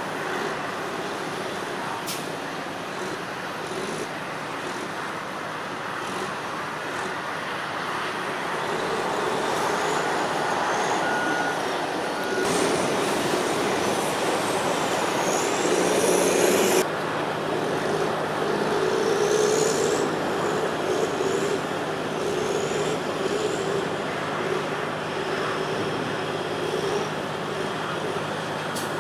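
Heavy diesel engines of a dump truck and wheel loaders running: a steady low drone that grows louder through the middle and changes abruptly about two-thirds of the way in. Several brief high-pitched squeals rise and fall over it.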